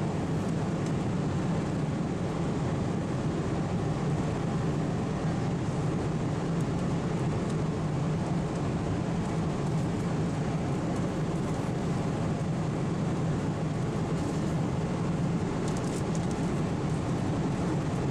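Steady drone of airliner cabin noise in cruise inside a Boeing 777-200LR: airflow and engine noise with a low, even hum, unchanging throughout.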